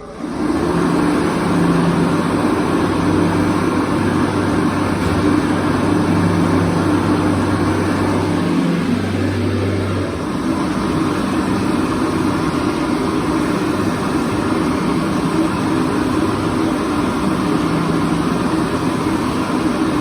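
Bobrick Aircraft electric hand dryer switching on and blowing: a loud, steady rush of air over a motor hum. The deepest part of the hum drops away about halfway through while the airflow carries on.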